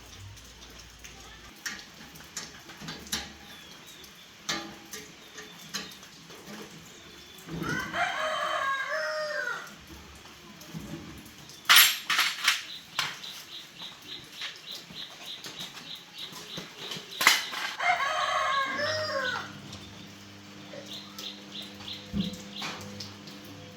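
A rooster crowing twice, each crow lasting about two seconds, with scattered sharp clicks between the crows.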